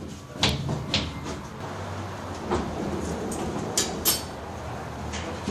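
Workshop clatter: a handful of sharp knocks and clicks, like tools and parts being handled, over a steady low hum.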